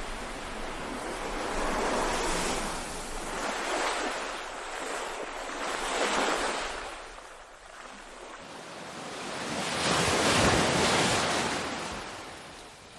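Ocean surf: waves washing in and drawing back, the noise swelling and ebbing every few seconds, with the biggest surge about ten seconds in.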